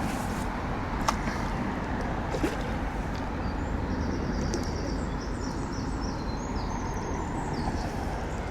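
Steady low outdoor rumble, with small birds chirping through the middle.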